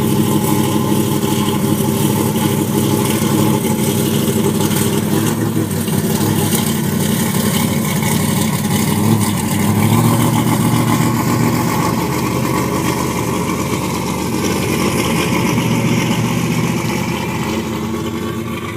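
Large mud truck's engine running, its pitch shifting about halfway through, under a steady hiss.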